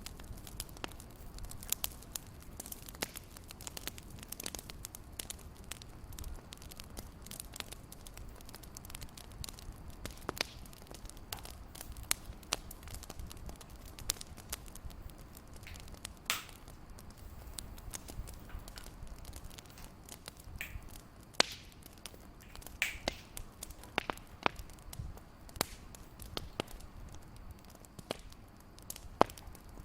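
Fireplace crackling: irregular small pops and snaps over a low steady rumble, with a few louder snaps in the second half.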